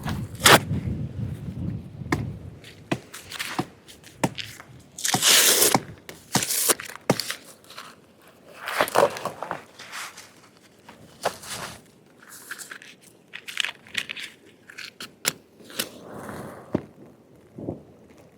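Paper being crumpled and firewood handled for a campfire: irregular crunching, rustling and knocks, with a louder, longer rustle about five seconds in.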